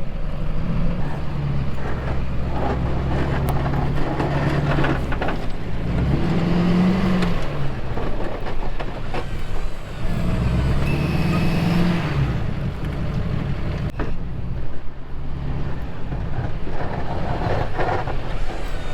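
Snow plow truck's engine running under load, revving up and easing back twice as the truck works the lot.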